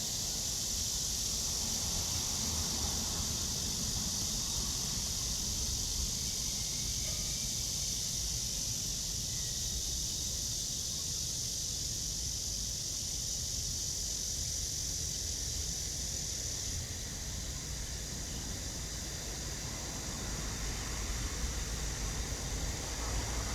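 Cicada buzzing in a steady high drone that drops away sharply about 17 seconds in, over a low rumble that grows louder near the end.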